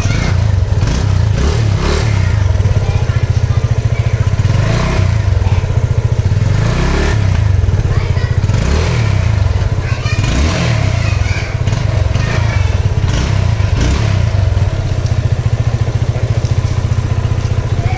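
Yamaha FZ25's 249 cc single-cylinder engine running through its exhaust at a steady idle, revved briefly on the throttle several times.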